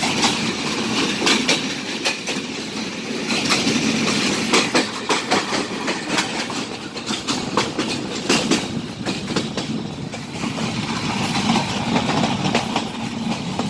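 Passenger train running through a station, heard from an open doorway on board: a steady rumble of the coaches with many sharp clicks and clacks of the wheels over rail joints and points.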